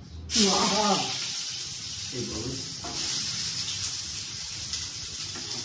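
Chopped onion dropped into hot oil in a steel pan, setting off a sudden loud sizzle about a third of a second in that settles into a steady frying hiss.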